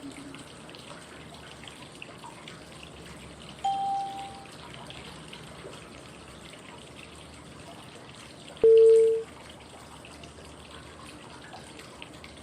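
Steady flowing-water white noise with breathing cue tones sounding every five seconds to mark the inhale, hold and exhale of 5-5-5 breathing. A low tone fades out at the start, a short high beep comes about four seconds in, and a louder, lower beep about five seconds after that.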